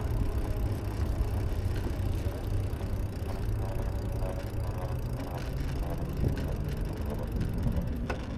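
Wind buffeting the microphone of a camera riding along on a moving bicycle: a steady low rumble, with the bike's own mechanical rattle underneath.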